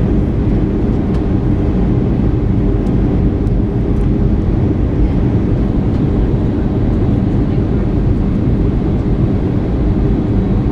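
Steady engine and airflow noise of an Airbus A319 heard inside the passenger cabin, a constant low drone with faint steady hums.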